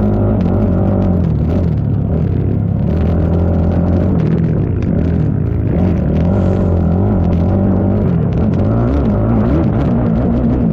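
ATV engine running hard in an off-road cross-country race, its pitch rising and falling repeatedly as the throttle opens and closes.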